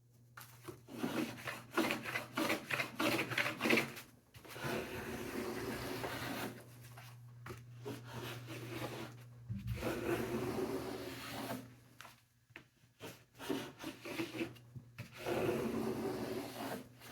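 Low-angle block plane shaving a thin piece of resawn wood: a run of quick scraping strokes, then longer passes with short pauses between them. The passes take the rough bandsawn surface down to final thickness.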